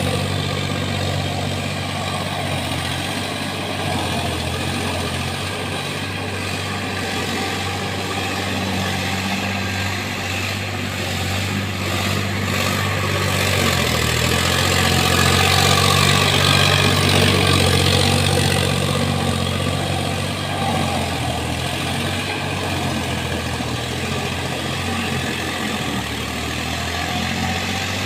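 Sonalika tractor's diesel engine running steadily, growing louder for a few seconds about halfway through before settling back.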